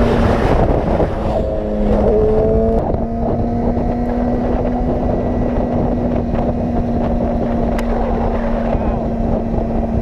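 Motorcycle engine running under way, with a steady note and wind rush on the microphone; the engine note shifts briefly about two seconds in.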